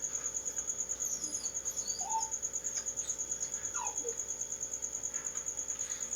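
Insect trilling steadily in a high, even pulse of about ten beats a second. A few short whining calls that glide in pitch break in, about two and four seconds in.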